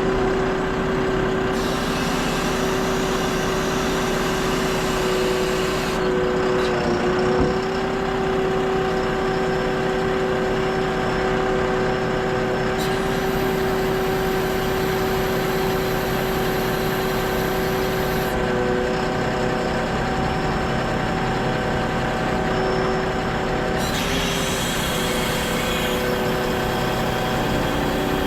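Heavy truck engine running steadily at work, with a constant hum made of several steady tones; the pitch wavers once briefly partway through.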